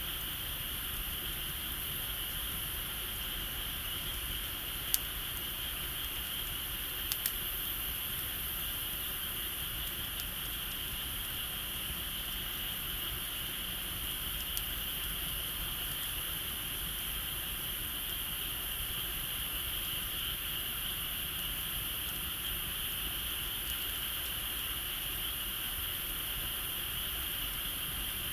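Steady, continuous chorus of insects, with a few sharp pops from a burning wood fire about five and seven seconds in and once more near halfway.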